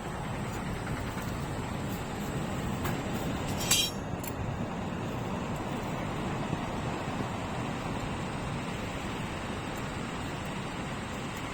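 Steady rushing background noise, with one sharp metallic clink about four seconds in.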